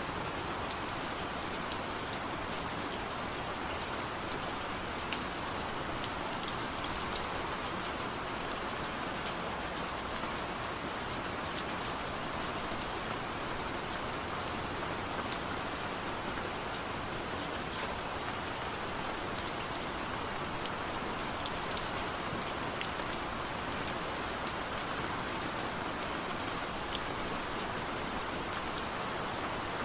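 Steady rain falling on surfaces, an even hiss with scattered drop ticks.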